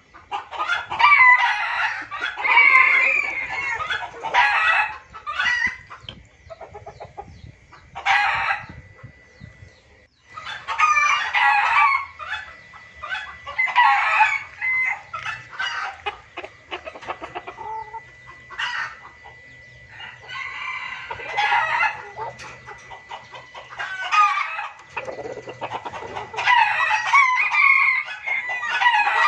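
Junglefowl calling in a noisy flurry: crowing and clucking in repeated bursts with short pauses, as used in a lure recording for wild junglefowl. A thin steady high tone runs underneath.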